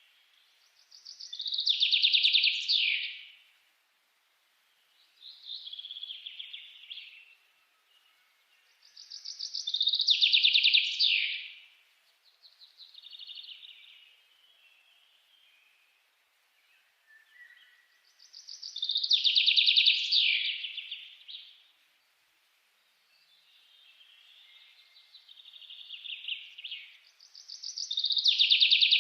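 A bird singing: a loud trilled phrase of about two seconds, repeated four times at intervals of roughly eight to nine seconds, with a softer phrase between each.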